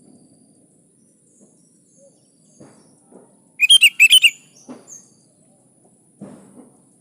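Sooty-headed bulbul (kutilang) giving one loud burst of quick chirping calls in two short phrases about halfway through, with a few faint low thuds around it.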